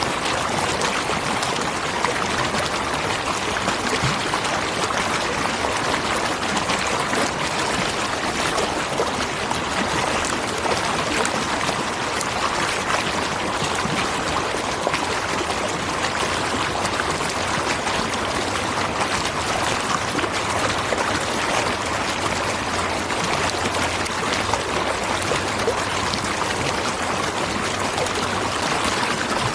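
Waterfall: water falling and rushing in a steady, even wash of sound.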